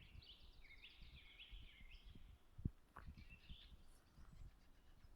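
A small songbird singing faintly in two short, quickly warbled phrases. A single soft knock sounds about halfway through.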